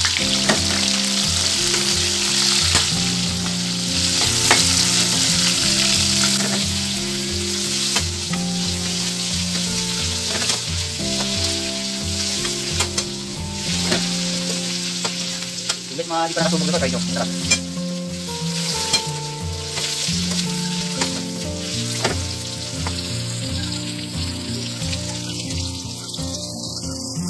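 Bitter melon slices frying in hot oil in a wok: a steady sizzle with scattered spattering pops. A ladle stirs the slices partway through. The sizzle fades near the end.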